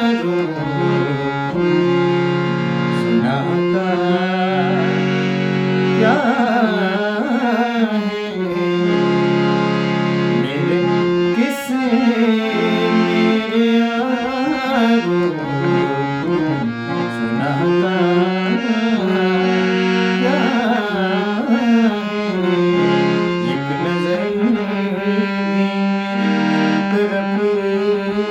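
Music: a sung song cover, a voice singing in gliding, ornamented lines over steady held accompaniment notes and a drum beat.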